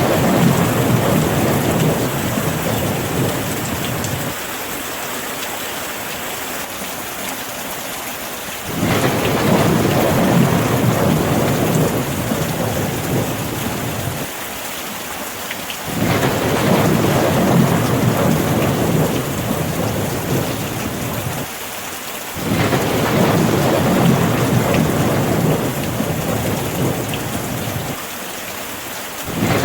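Steady rain hiss with rolling thunder: a low rumble swells up and fades about every six to seven seconds, four times, with another starting near the end.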